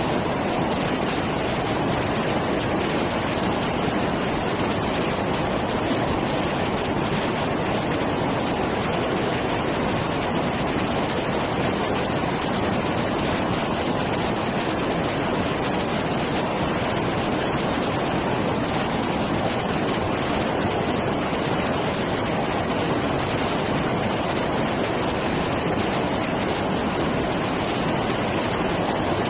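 Steady, unbroken rush of flowing water, like a waterfall or stream, without pauses or swells.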